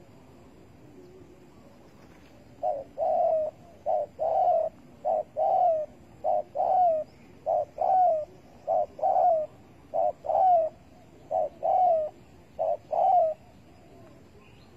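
Spotted dove cooing: about nine phrases in a row, each a short note followed by a longer, slightly falling coo, starting about three seconds in and stopping shortly before the end.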